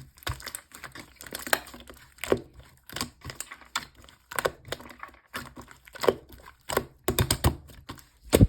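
Slime being pressed and worked by hand, giving crisp clicking, crackling pops in short bursts about once a second, with a quick run of clicks near the end before it cuts off.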